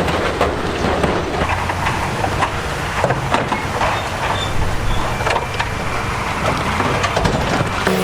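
Heavy diesel construction machinery running steadily, with frequent knocks and clatters of rock and metal over the engine noise.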